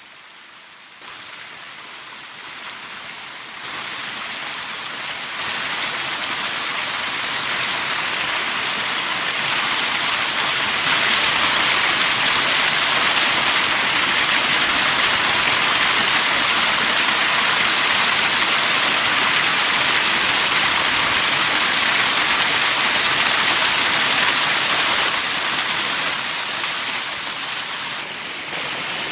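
Steady rushing of water, rising in steps over the first ten seconds or so to a constant level and easing slightly near the end.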